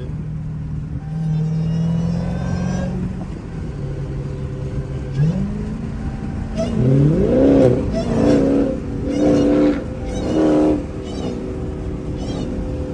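Muscle-car V8 engine running steadily, then revving with rising pitch from about five seconds in. It gives a few loud pulls around the middle and settles back into a steady run near the end.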